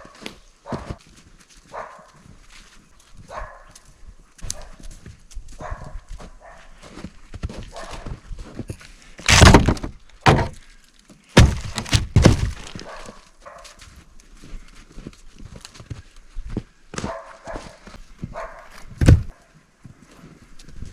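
Pieces of dry jack pine firewood knocking and thudding as they are handled and tossed onto a load: scattered wooden knocks throughout, with a cluster of loud thumps around the middle and another loud thump near the end.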